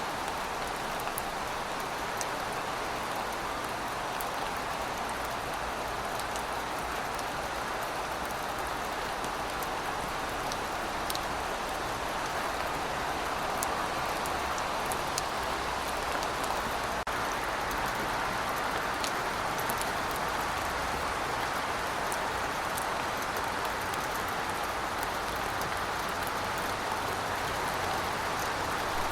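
Steady rainfall: an even hiss of rain with scattered sharp drop ticks on top.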